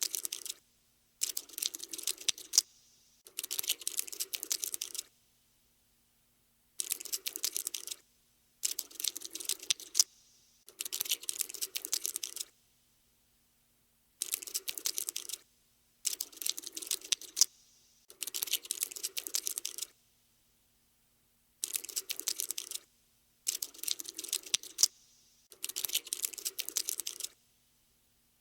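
Cockroach scuttling sound effect: bursts of rapid, dry clicking like tiny legs skittering, each lasting one to two seconds, with short pauses between them.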